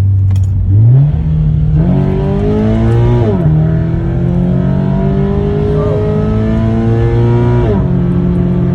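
Toyota 86's flat-four engine, fitted with an aftermarket exhaust and intake, revving hard. Its note jumps up about a second in and keeps climbing, drops sharply twice, then holds steady.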